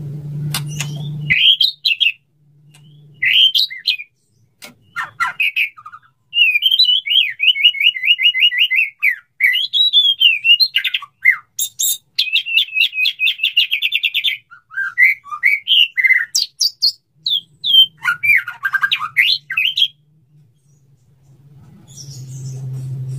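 Male white-rumped shama singing a long, varied song of whistles and fast rattling trills, the song a male uses to court a female.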